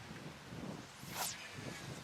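A distance cast: a short whoosh of the rod whipping through about a second in, then a faint whine from the reel's spinning spool as line pays out, slowly falling in pitch. Wind noise on the microphone underneath.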